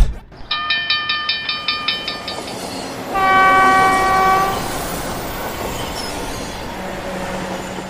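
Cartoon train sound effects: a thump, then a rapid even chugging rhythm, a single long train horn blast about three seconds in, and the steady rumble of the train running on.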